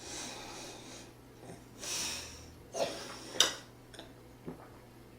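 A person's breathing: breathy puffs of air, with two sharp clicks a little past halfway, the second the loudest, and a fainter click after them.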